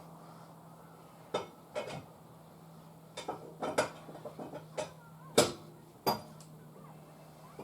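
Irregular metallic clinks and knocks of tools and wheel hardware being handled during a wheel change on a side-by-side, the loudest about five and a half seconds in, over a steady low hum.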